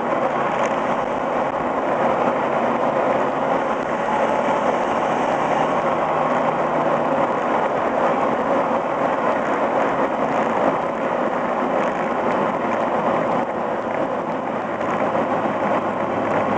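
Exhaust note from the stock muffler of a Toyota Echo with 412,700 miles, heard up close at the tailpipe while driving at a steady pace: an even engine drone mixed with road and wind rush, with no revving.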